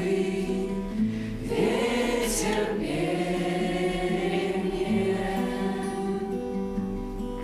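A group of voices singing the closing phrase of a slow song together, the last notes held long and steady.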